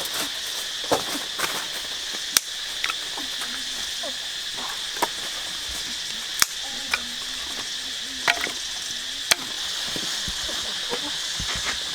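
Steady, high-pitched chorus of insects such as crickets, with about seven sharp, irregular knocks or clicks scattered through it.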